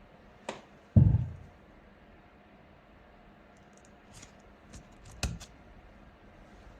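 A sharp click, then a heavy thump about a second in, followed later by a few light clicks and taps, like objects being handled and set down on a hard surface.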